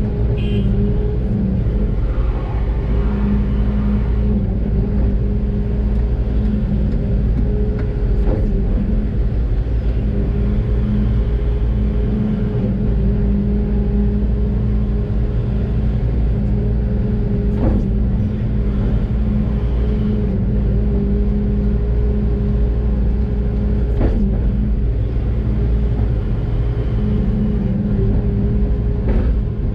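Doosan DX600 excavator's diesel engine running steadily, heard from inside the cab, with a few sharp knocks spread through it.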